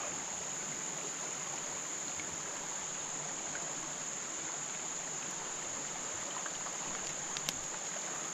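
Steady high-pitched insect chorus, crickets, over the even rush of runoff water flowing fast past a kayak, with a couple of faint clicks near the end.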